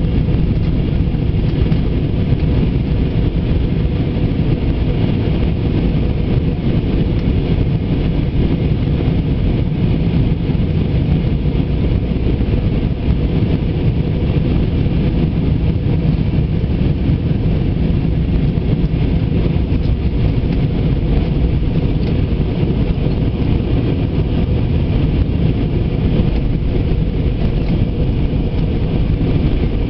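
Steady in-flight cabin noise of an Airbus A320: the even, deep sound of its jet engines and the airflow over the fuselage, unchanging throughout.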